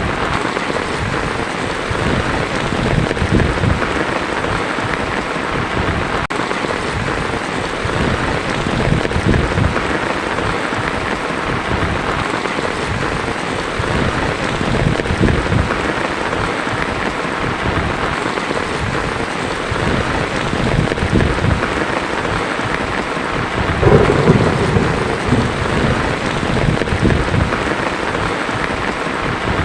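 Heavy rain drumming steadily on a tin roof, with thunder rumbling low several times; the loudest rumble comes a little over three quarters of the way through.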